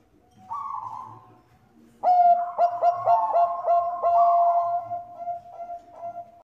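Bangkok-bred zebra dove (perkutut) singing: a soft coo about half a second in, then from about two seconds a loud run of quick, clipped cooing notes with a longer held coo in the middle.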